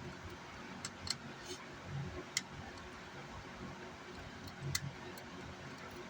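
A few light, sharp clicks and a couple of soft knocks, scattered over a steady low hiss and hum.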